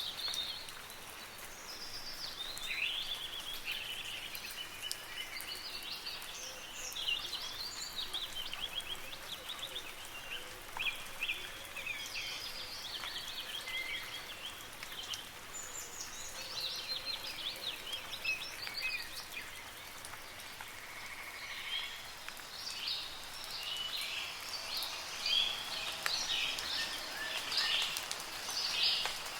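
Several songbirds chirping and trilling over the soft, steady patter of rain, with the birdsong busiest near the end.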